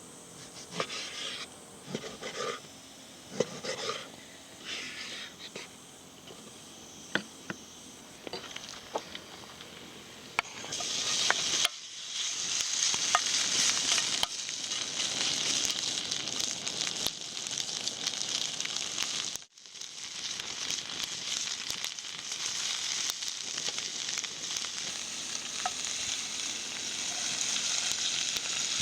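Scattered light clicks and knocks, then about ten seconds in food starts sizzling steadily in a hot pan over a campfire. The sizzle breaks off for an instant about two-thirds of the way through and carries on.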